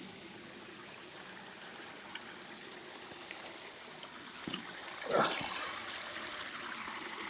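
Water running steadily over a small woodland waterfall, an even rushing hiss, with one short louder sound about five seconds in.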